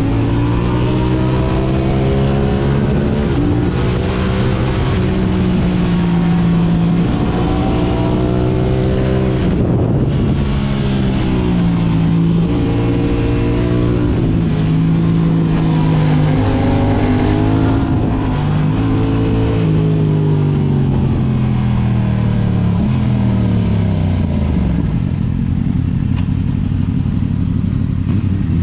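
Yamaha R6's inline-four engine through an Akrapovic exhaust, revving up and down as the bike is ridden through the gears, the pitch climbing and then breaking off again and again. About 25 seconds in the revs drop and the engine settles to a steady low note.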